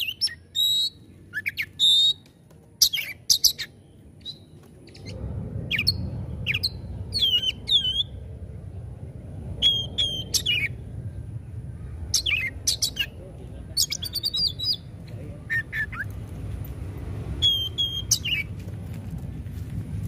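Oriental magpie-robin (kacer) singing in short, loud bursts of sharp whistled notes and calls with brief pauses between them. A steady low rumble comes in underneath about five seconds in.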